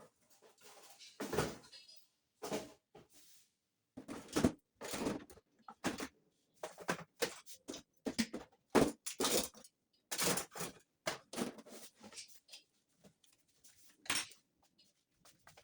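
Irregular knocks, scrapes and rustles of objects being handled, in short bursts several times a second with brief pauses.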